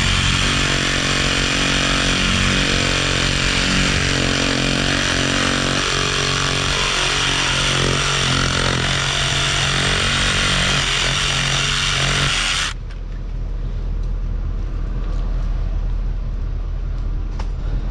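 Reciprocating saw (Sawzall) cutting through PVC water pipe, its motor pitch wavering as the blade works. It runs for about twelve seconds, then stops abruptly, leaving a low steady engine rumble.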